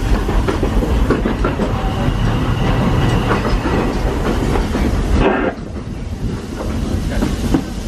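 Narrow-gauge steam train's open-sided passenger car running along the track: a steady rumble with wheels clicking over the rail joints. The rumble drops noticeably about five seconds in.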